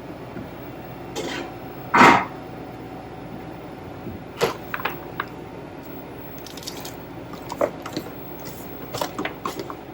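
Kitchen handling noises: one louder, short scraping clatter about two seconds in, then scattered light clicks and knocks.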